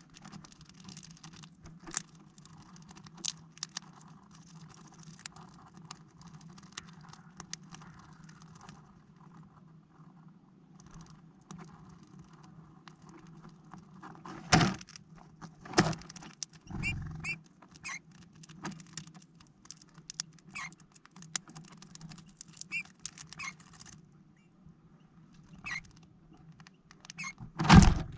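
Small birds such as tits and sparrows pecking and moving about on a plastic-bottle bird feeder: scattered light taps and clicks, with a few louder knocks and some short high chirps in the second half.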